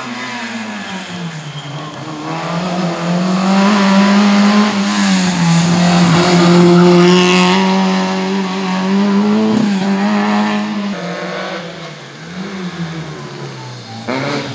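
Small hatchback competing in an autoslalom, its engine driven hard past the spectator. The engine note rises and falls several times as the driver shifts and lifts between the cones, and it is loudest around the middle.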